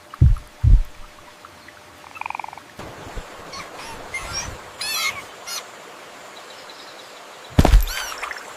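Two deep thumps, then a short rapid trill and a run of high chirping animal calls, as in jungle ambience. Another deep thump with a high warbling call comes near the end.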